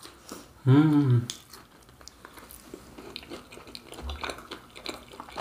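Close-miked chewing of a crispy fried cheese pastel (Brazilian pastel de queijo): faint crunches and small wet mouth clicks. One short voiced sound comes about a second in.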